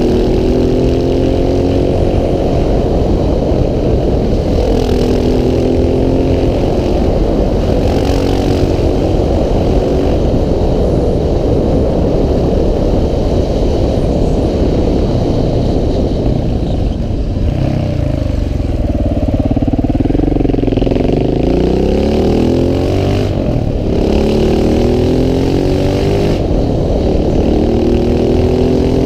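KTM 690 SMC R's single-cylinder engine under hard acceleration, its note rising again and again as it pulls through the gears. About two-thirds of the way through it slows, the pitch dropping, then picks up and climbs once more.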